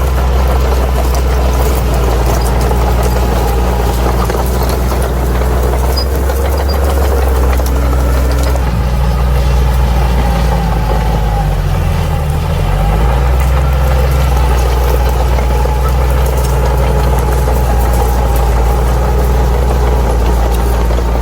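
Bulldozer diesel engine running steadily at working revs while clearing ground. Its note dips briefly about twelve seconds in and then recovers.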